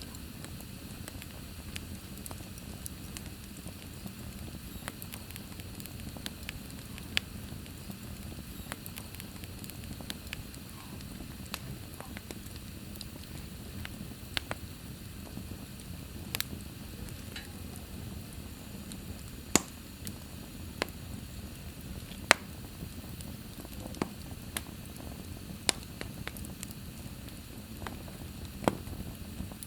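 Wood fire crackling in a fireplace: a steady low rumble and hiss, broken by sharp pops at irregular intervals, about a dozen in all.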